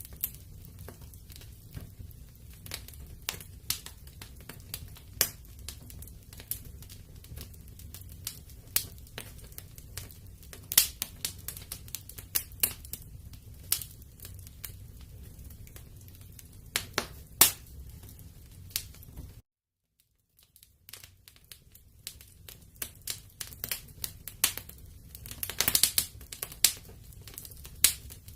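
Wood fire burning in a fireplace, crackling with sharp irregular pops over a low steady rumble. The sound cuts out for about a second about two-thirds of the way through, then the crackling resumes and grows busier near the end.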